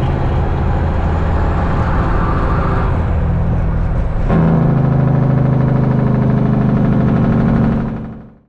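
Kenworth truck's Detroit Diesel engine running under way with a steady note. A little over four seconds in there is a sudden click, and the engine note changes and gets louder. Near the end the sound fades out.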